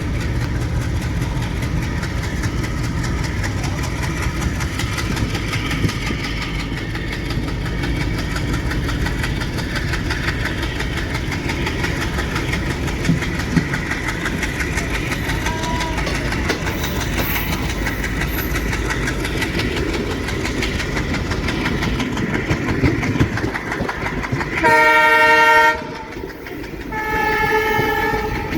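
Indian Railways WDG-3A ALCO diesel locomotive running with heavy, steady engine and rail noise, then sounding its horn twice near the end: a loud blast of about a second, and a second, quieter blast of about a second and a half.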